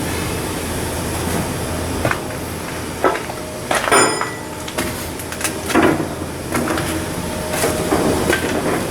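Shipyard steelwork noise: a steady machinery hum with irregular metal clanks and knocks, as from hammering and handling steel on hull blocks, a few louder ones near the middle.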